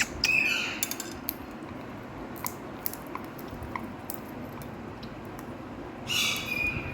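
Indian ringneck parakeet giving two short, harsh calls, one just after the start and one near the end. Scattered faint clicks and taps fall between them.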